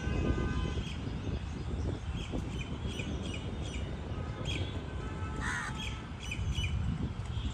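Birds calling: many short, repeated calls, with one louder, harsher call about five and a half seconds in, over a steady low rumble.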